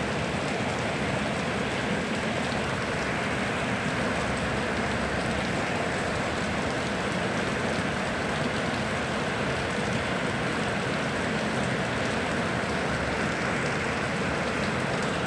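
Steady rain falling, with a continuous even hiss of drops and a low rushing underneath, as of river water.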